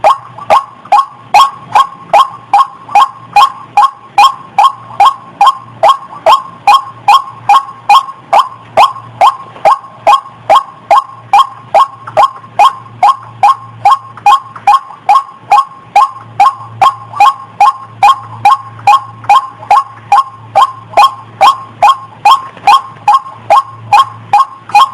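Female rail (ruak-ruak), in breeding condition, giving its call over and over: a short note that bends downward, about two a second, at a very even pace. A faint low hum pulses under the calls.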